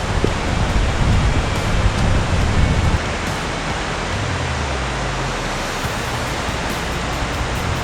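Steady rushing of flowing water, a loud even hiss, with wind buffeting the microphone as a low rumble for the first few seconds.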